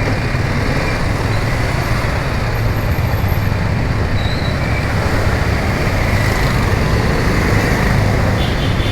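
Motorcycle on the move through town traffic: its engine running with a steady rush of wind and road noise.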